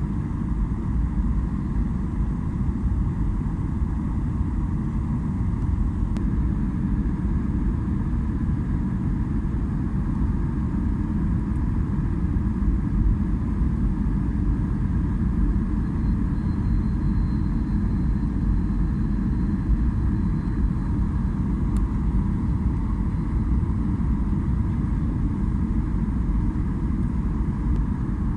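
Steady low rumble of a Boeing 737-800's engines and airflow heard inside the passenger cabin during the descent for landing.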